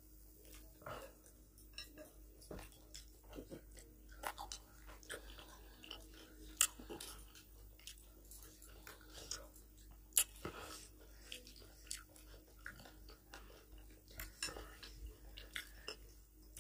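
Two people eating mutton curry and rice with their hands: close, faint chewing and mouth sounds, with scattered small clicks and a few sharper ones.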